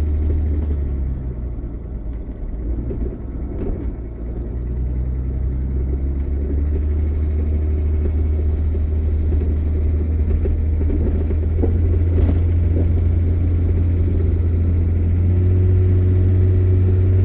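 Vehicle engine running with a low, steady drone, heard from inside the cab. It eases off for a few seconds, then builds again and rises in pitch near the end as the vehicle picks up speed.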